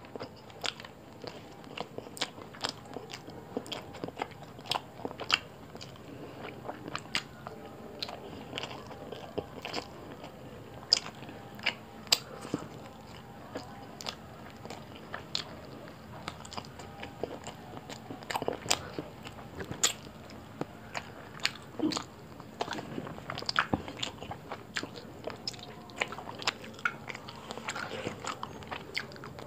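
Close-up chewing and mouth sounds of a person eating roti with curry: many short, sharp clicks of lips and tongue, irregularly spaced, a few every second.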